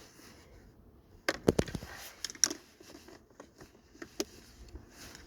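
A quick cluster of sharp clicks and knocks about a second in, then a single sharp click a moment later and a couple of lighter clicks near the end: handling sounds, such as a door, seatbelt or controls being worked.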